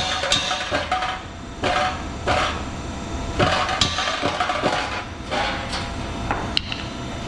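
Repeated metal knocks and scraping rattles, about one or two a second, from the cut-out exhaust muffler being handled and knocked.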